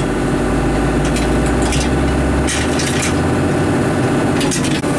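Heavy diesel engine running steadily, with a deep low rumble that drops away about halfway through and a few brief hissing noises over it.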